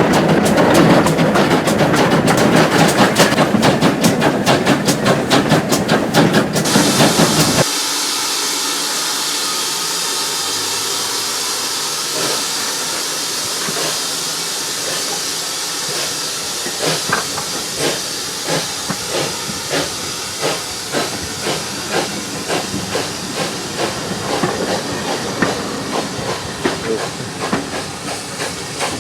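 Background music with a drum beat for about the first seven seconds, then a steam locomotive (a Great Western tank engine). Steam hisses steadily, and from about halfway through come regular chuffs of the exhaust as the engine works.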